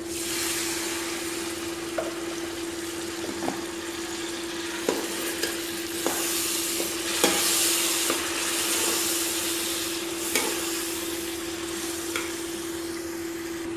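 Potatoes, tomatoes and spices sizzling in an aluminium pot, the sizzle swelling as a little water goes in, while a spatula stirs and now and then knocks and scrapes against the pot. A steady low hum runs underneath.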